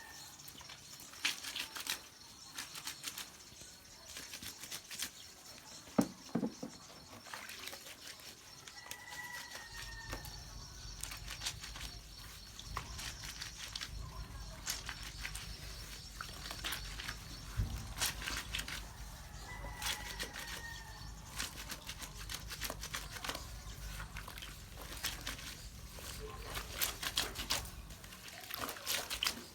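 Clothes being washed by hand: wet fabric scrubbed and rubbed with irregular splashes of water. A short high chirp comes three times, about ten seconds apart, and a low steady hum starts about ten seconds in.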